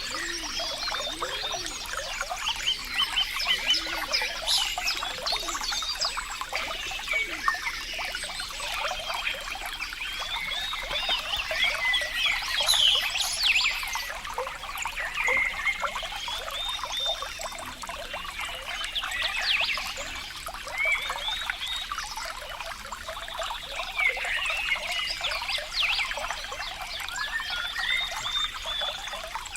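Water trickling and babbling steadily, with many short chirping calls from small animals over it.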